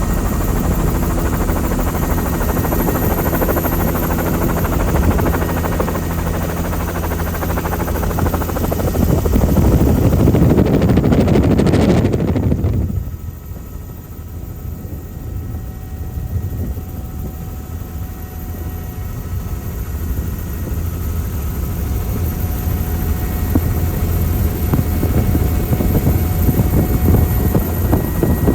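Helicopter rotor and engine noise heard from aboard, a steady rumble that grows louder a few seconds before the middle, drops sharply about halfway through, then slowly builds again.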